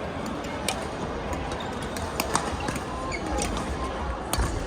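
Badminton rally in a sports hall: sharp clicks of rackets striking the shuttlecock and short squeaks of court shoes on the floor, over a steady hall hum.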